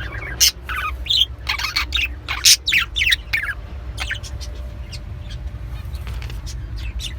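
Small pet birds chirping, many short quick calls overlapping, busiest in the first few seconds and sparser after, over a steady low hum.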